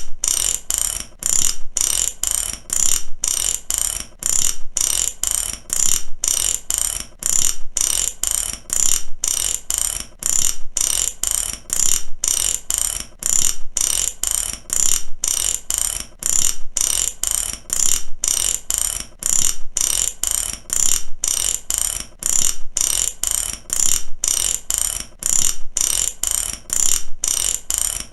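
Mechanic's ratchet wrench being worked back and forth, each stroke a rapid run of pawl clicks, in an even rhythm of a little under two strokes a second.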